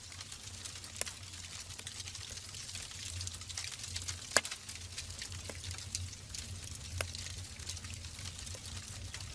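Wood logs burning in a fireplace: a steady crackling hiss with a few sharp pops, the loudest about four seconds in.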